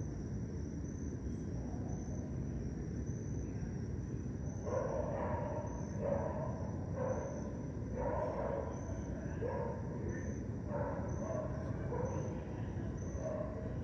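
A dog barking repeatedly in the distance, about once a second, starting about five seconds in. Under it runs a cricket's steady pulsing high chirp and a constant low background rumble.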